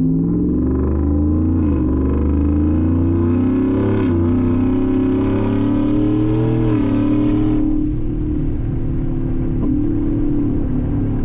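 Ford F-150's supercharged 5.0 V8 accelerating through a custom cat-delete exhaust with a straight-through muffler, heard from inside the cab with the passenger window down. The note climbs and drops back at three upshifts, then settles into a steady cruise about eight seconds in.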